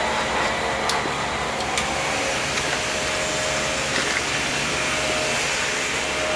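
A motor running steadily: an even whooshing noise with a constant hum and a few faint ticks.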